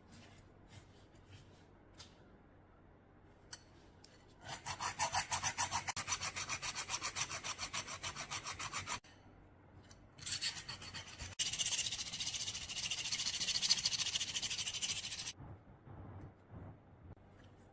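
Quick back-and-forth rasping strokes of a hand tool worked against a part, about four to five strokes a second. The strokes come in two runs of about five seconds with a short pause between, the second run higher-pitched and more continuous. A few light clicks come before.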